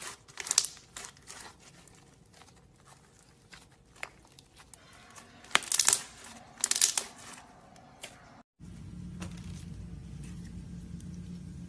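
Slime being squeezed and worked by hand, making irregular crackling and popping sounds with louder clusters about six and seven seconds in. After a short break about eight and a half seconds in, a steady low hum takes over.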